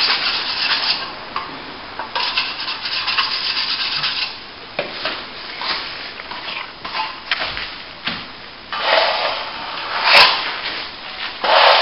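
Plastering trowel scraping over a wet plaster top coat in a few drawn-out strokes, each lasting one to two seconds, with a sharp click about ten seconds in.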